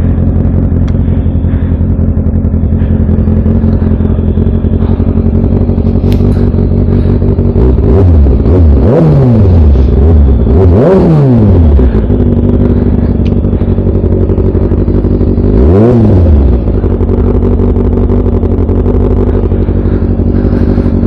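Yamaha MT-09's 890 cc inline-three engine with an Akrapovic full exhaust idling steadily, blipped up in revs and back down three times, about a third, halfway and three quarters of the way in.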